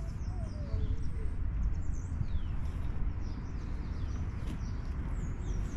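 Small birds chirping in short, quick, scattered calls over a steady low rumble.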